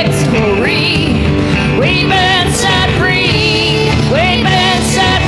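Live worship band music: a sung melody of held, wavering notes with upward slides over full band accompaniment.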